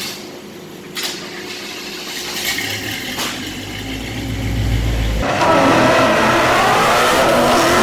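Chevy C10 pickup's engine running through newly fitted single-chamber mufflers, loud, swelling in a rev about four seconds in and getting louder from about five seconds in.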